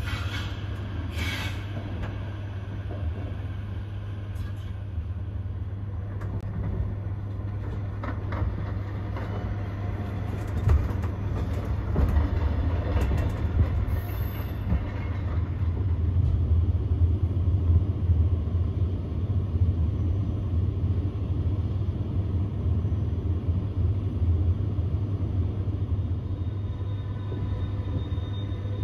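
Train running along the track: a steady low rumble with scattered light clicks and rattles, growing louder about twelve seconds in.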